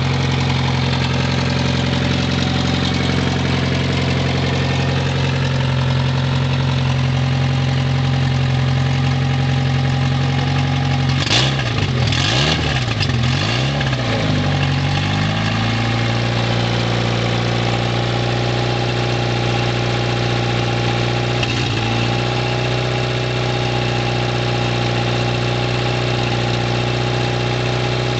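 Turbocharged Honda D16 four-cylinder engine idling steadily with no exhaust fitted, on its first start after a rebuild. About eleven seconds in, the revs rise and fall a few times over several seconds, then settle back to a steady idle.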